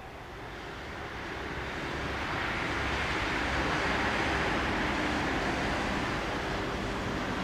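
Train approaching on the track, its running noise growing louder over the first few seconds and then holding steady.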